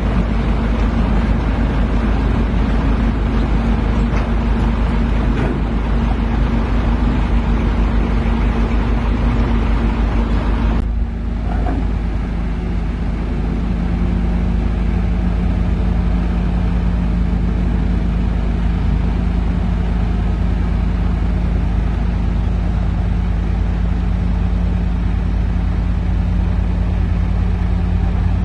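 Heavy diesel engine running steadily. About eleven seconds in the sound changes abruptly and settles into a steadier low hum.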